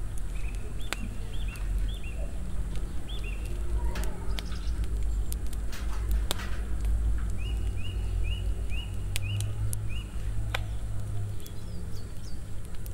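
A small bird chirping in quick series of short high calls over a steady low rumble, with a few sharp clinks of a spoon against a metal pan.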